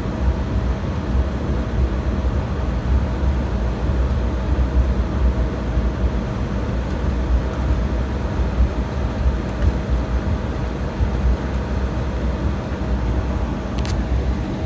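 Steady low rumble and hum of an airliner cabin on the ground before departure, with a small click near the end.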